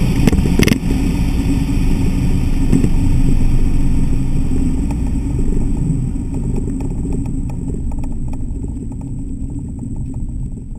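Cabin sound of a 2000 Audi S4's 2.7-litre twin-turbo V6, fitted with RS4 K04 turbos, running at high speed, with two sharp snaps less than half a second apart about a second in. The engine, wind and road noise then slowly fade as the car slows after the pull, and light rattling clicks come in during the second half.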